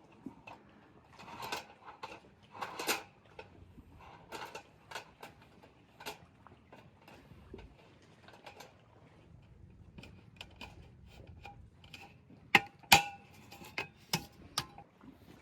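Irregular small clicks and knocks, with a couple of sharp, louder knocks about three-quarters of the way through.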